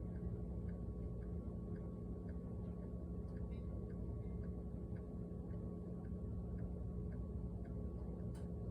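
A steady electrical hum with a faint, regular ticking of about two ticks a second, like a clock or a small ticking mechanism.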